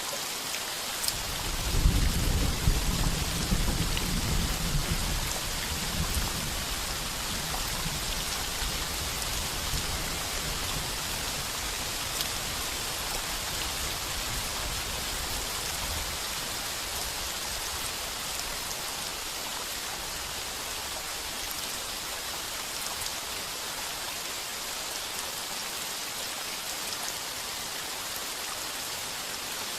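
Heavy rain pounding steadily on a tin roof. A roll of thunder comes in about two seconds in, loudest at first, then rumbles on and fades away over the next dozen seconds.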